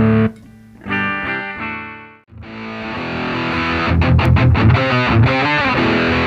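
Electric guitar played through a repaired Boss MT-2 Metal Zone distortion pedal during a bypass and switching test. A chord rings out and dies away, then a distorted riff starts about two and a half seconds in and turns into a steady chugging rhythm.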